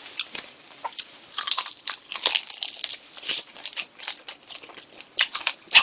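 Biting into and chewing spicy grilled chicken feet, tearing the skin off the bones: a run of short crunching and clicking mouth sounds.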